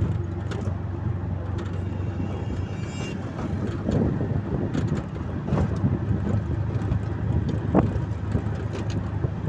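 Steady low engine drone and road noise of a moving vehicle, with scattered knocks and rattles.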